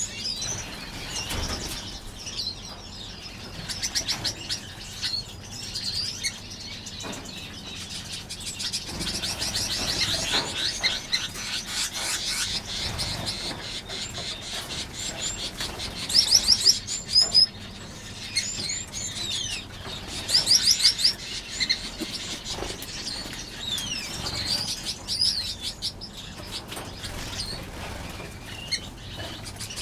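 A flock of aviary finches chirping and calling together, with wings fluttering. Bursts of rapid, high chirps about 16 and 21 seconds in are the loudest.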